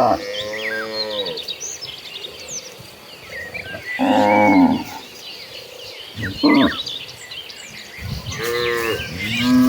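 Cattle mooing: a herd calling in turn, with about five separate moos. The loudest comes about four seconds in, a short one follows at six and a half seconds, and two more start near the end.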